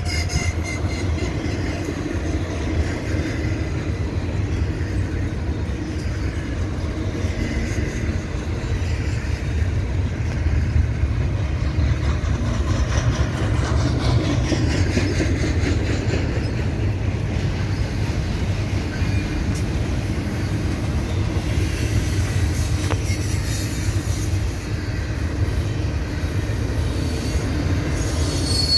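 Double-stack container well cars of a freight train rolling steadily past: a continuous low rumble of steel wheels on rail.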